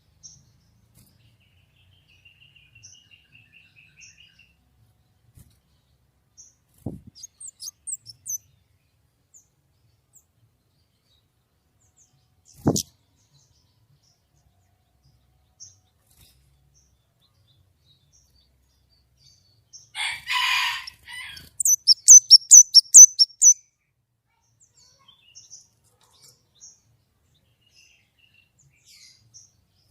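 White-rumped shama singing in short phrases: scattered faint chirps, then a harsh burst about two-thirds of the way in, followed at once by a quick run of loud, sharp high notes. Two brief knocks come earlier.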